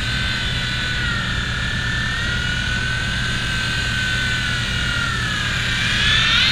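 V911 micro RC helicopter's small electric motors and rotor whining in flight, the pitch drifting with throttle, dipping about five seconds in and then rising sharply near the end. A steady low rumble sits underneath.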